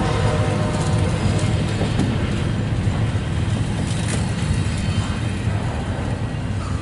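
Double-stack intermodal well cars loaded with shipping containers rolling past at close range: a steady low rumble of steel wheels on rail, with a few light clicks.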